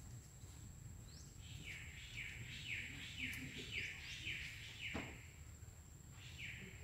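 A bird calling a run of short falling notes, about two a second, pausing and starting again near the end, over a faint steady high-pitched tone. A single sharp click about five seconds in.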